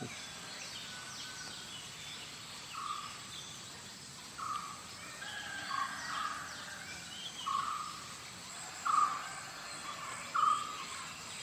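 Birds calling outdoors: one bird repeats a short call about every second and a half, with fainter chirps from others over a steady background hiss.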